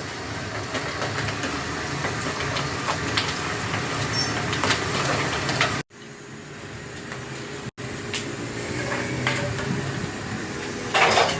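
Busy street-food stall and street noise: a steady hiss with a low hum, faint background voices and occasional clatter. It breaks off abruptly twice where the clips are cut, with a short loud clatter near the end.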